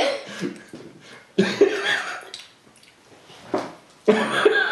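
A few short, wordless voice sounds, such as hums, murmurs or a cough, from people chewing and tasting a snack, with quieter gaps between. The bursts come about a second and a half in, briefly near the middle, and again near the end.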